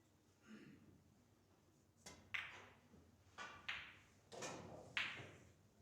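Pool balls clacking together in a quick run of about seven sharp knocks over three seconds, starting about two seconds in, the loudest near the end.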